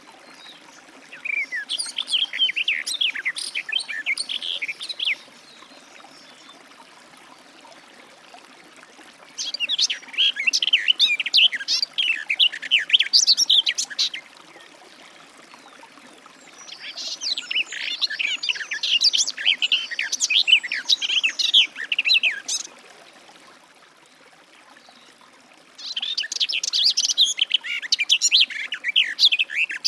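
Garden warbler singing: long, fast, even-flowing warbled phrases of about four to six seconds each, four bouts with short pauses between them, over a faint steady background hiss.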